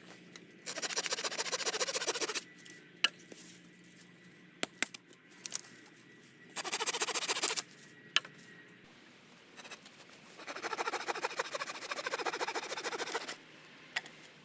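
Three stretches of fast rasping scraping, the last the longest, with a few sharp clicks in between.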